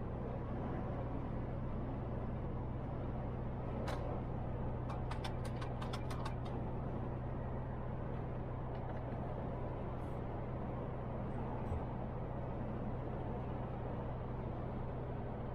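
MAN TGX truck's diesel engine running with a steady low hum. A quick run of light clicks comes about four to six seconds in.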